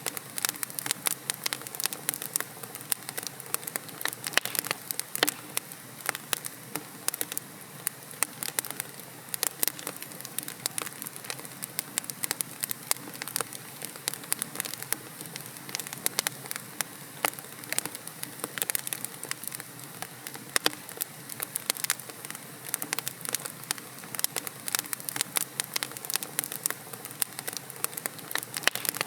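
Wood logs burning in a fireplace, crackling and popping with many sharp snaps over a steady low hiss.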